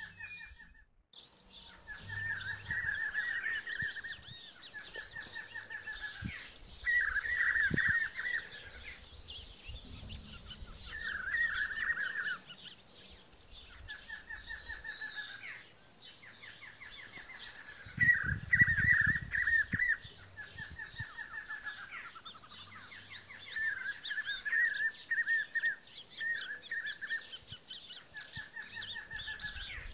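Several songbirds singing together. One bird repeats short phrases of fast trilled notes every second or two over steady chirping from the others.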